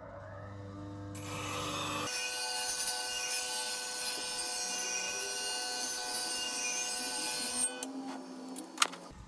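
Walnut wood being worked with an abrasive tool, a steady scraping and rasping across the bowl's surface, in short segments that start and stop abruptly. A sharp click near the end.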